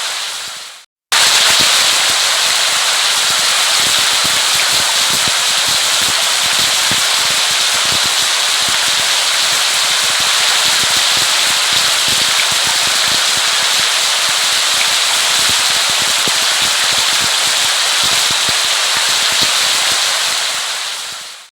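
Steady heavy rain: a dense hiss of falling water with many close drops crackling on a hard surface. It fades out and starts again about a second in, and fades out once more near the end.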